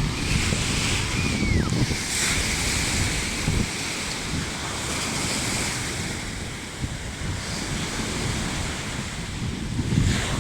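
Sea waves breaking and washing onto a beach, swelling in surges, with strong wind buffeting the microphone in low rumbles.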